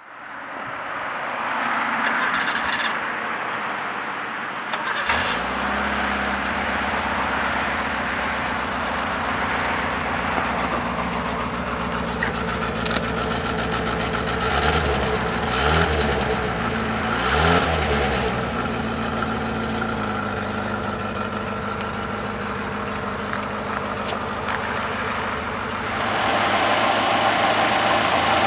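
1980 Datsun 210's A14 inline-four engine cranking and catching about five seconds in, then idling steadily, heard at the exhaust. Three quick revs come about halfway through. Near the end the sound becomes louder and brighter as the engine bay is heard.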